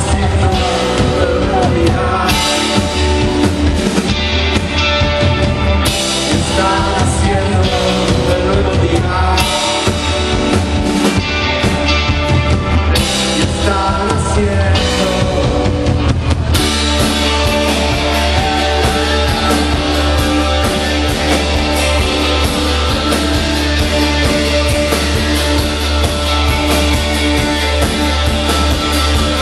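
Rock band playing live, with drum kit, guitar and bass and some singing; about halfway through the sound thickens into a fuller, more continuous wall of guitar.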